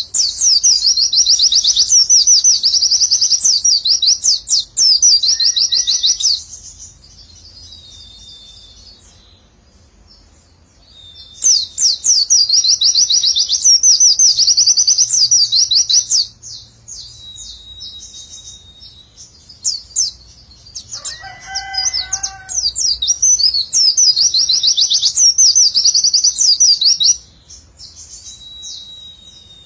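White-eye (pleci) singing its rapid 'nembak' song: three long runs of fast, high, repeated 'witwitwit' notes with short pauses between. A brief lower call sounds about two-thirds of the way through.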